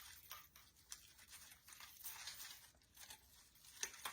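Faint rustling and light clicking as a decorative ball pick and artificial leaves are handled and shifted into place.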